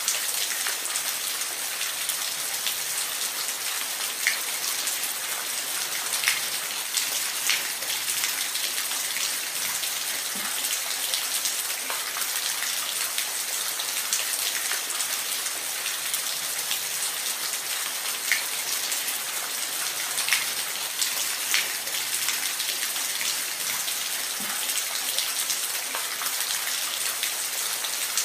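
Steady rain falling, a constant hiss with individual drops ticking sharply on a surface every second or so.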